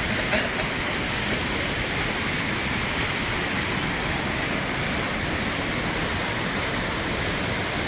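Steady rush of fast-flowing river water over rocks, a strong current or small waterfall.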